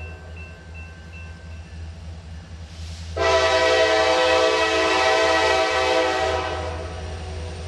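Norfolk Southern SD70ACu helper locomotive sounding its horn for the grade crossing. The end of one blast fades away at the start, then a long steady blast begins about three seconds in and lasts about three seconds, over the constant low rumble of the diesel engines.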